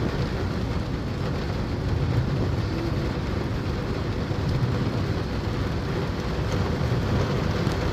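Steady outdoor rumble and hiss of rain and passing road traffic, with a faint steady hum underneath.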